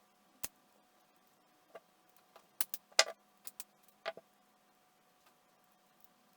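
A string of sharp clicks and light knocks from small hard objects being handled, bunched in the middle with the loudest about three seconds in, over a faint steady hum.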